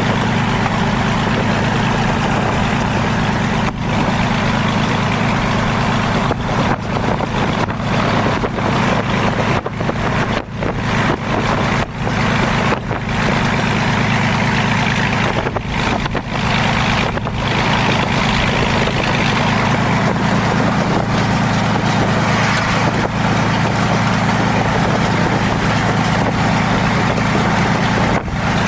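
Zlin Z-226MS's piston engine and propeller in flight, a loud, steady drone that holds its pitch throughout.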